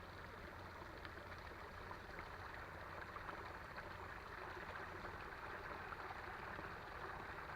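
Creek water flowing, a steady faint trickling rush.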